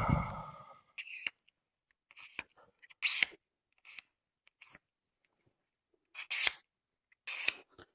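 Plastic car bumper being scraped by hand with a blade scraper in short, separate strokes, taking off the oxidised surface layer before plastic welding.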